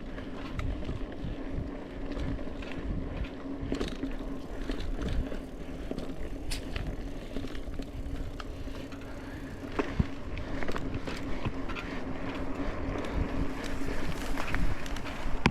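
Mountain bike riding along a dirt trail: a continuous rumble of tyres and wind, with scattered clicks and rattles and a steady low hum.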